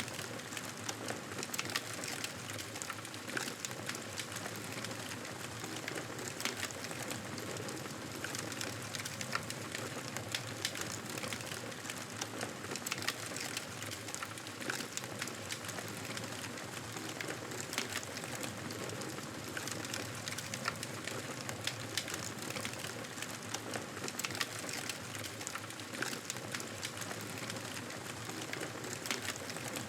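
Fireplace wood fire crackling: a steady hiss with frequent small, sharp crackles and pops throughout.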